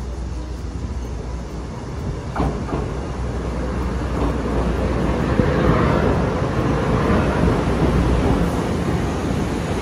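Passenger train running on the rails: a steady low rumble that swells in the second half, with one sharp click about two and a half seconds in.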